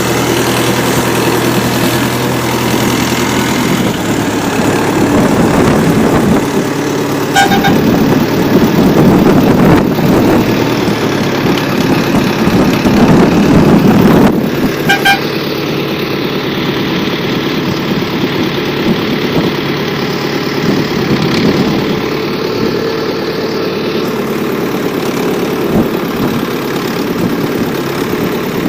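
Homemade minitractor's engine running steadily, pulling harder and louder for several seconds partway through, then settling back.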